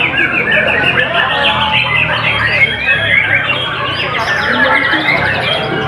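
White-rumped shama (murai batu) singing a fast, unbroken run of short, varied notes.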